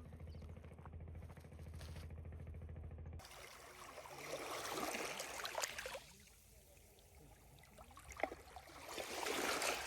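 A steady low engine hum cuts off abruptly about three seconds in. It is followed by water sloshing or splashing that swells up twice.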